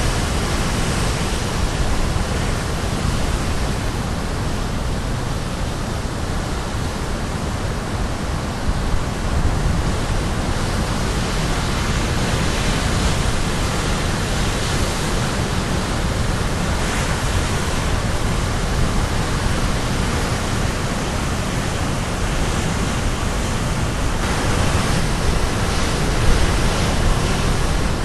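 Waves of the Caribbean Sea breaking on the shore in a continuous roar of surf, swelling and easing gently as the waves come in, with the loudest surges near the end.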